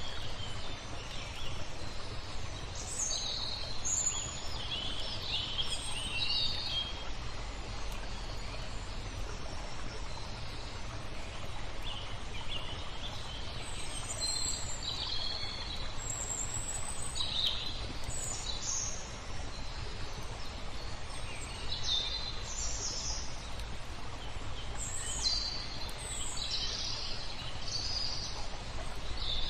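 Several small birds chirping and calling on and off, short bright notes scattered through, over a steady low background rush.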